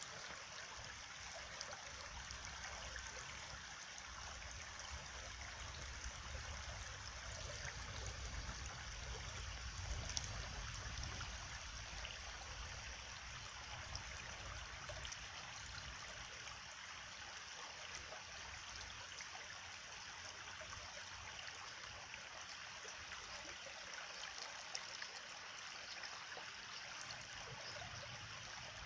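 A stream of water flowing and trickling steadily, with a faint low rumble beneath.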